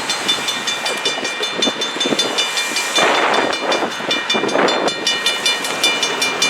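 A train in motion, with a fast, even clicking of about six strokes a second and two short bursts of hiss about three and four and a half seconds in.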